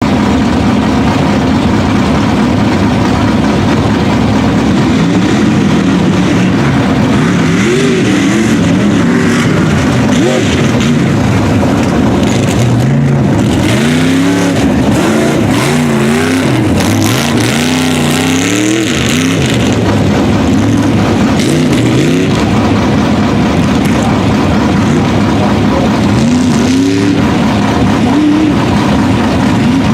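Modified tough-truck engines running hard, revving up and down over and over, loud and unbroken throughout.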